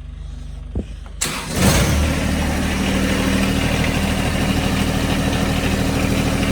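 John Deere 1025R compact tractor's three-cylinder diesel engine cranking and catching about a second in, then settling into a steady idle.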